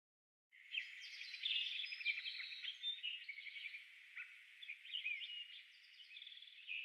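Birds chirping, a dense chorus of short calls and quick whistled glides that starts abruptly about half a second in.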